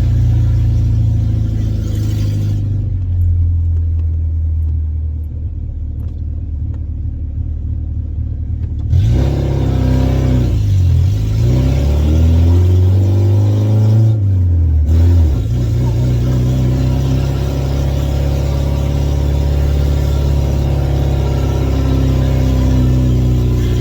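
Ford Cortina P100 pickup's 1.6 Pinto four-cylinder engine under way, loud through a broken exhaust that is due for welding. About nine seconds in it gets suddenly louder and the engine note dips and climbs as revs change, then settles into a steady note.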